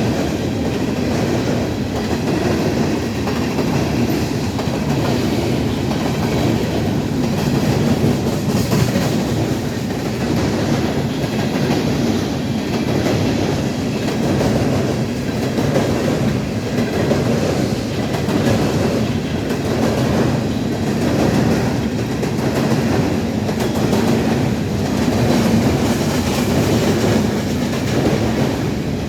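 Empty CSX coal train's cars rolling steadily past, steel wheels running over the rails in a loud, continuous rumble.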